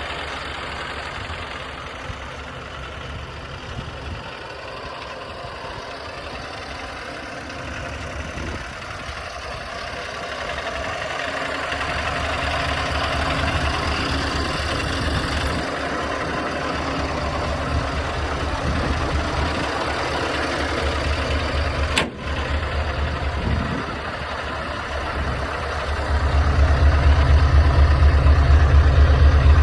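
Scania S520's 16-litre V8 diesel running steady, growing louder through the middle, then much louder with a deep pulsing rumble about four seconds from the end.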